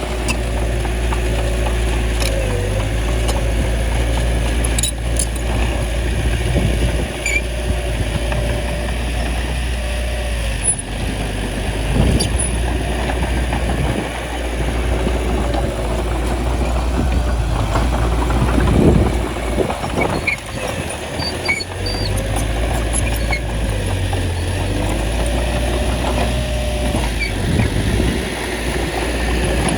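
Diesel engine of a small crawler bulldozer running steadily as it works, its pitch wavering up and down now and then, with a few scattered sharp knocks.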